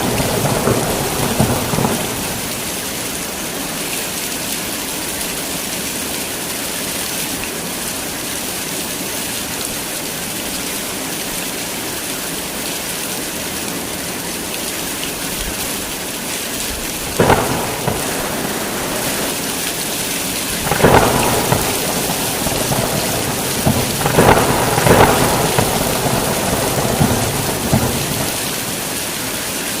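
Heavy rain falling steadily, with thunder rumbling near the start and several more thunder cracks and rumbles in the second half.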